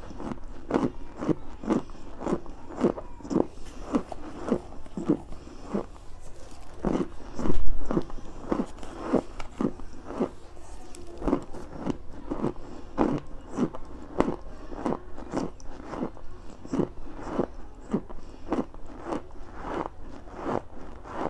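Chunks of cornstarch crunched and chewed close to a clip-on microphone, a steady rhythm of about two crunchy chews a second. A low bump, the loudest moment, comes about seven and a half seconds in.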